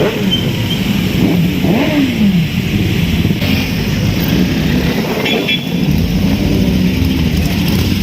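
Several superbike engines running together in a group ride, with one revved up and back down about two seconds in.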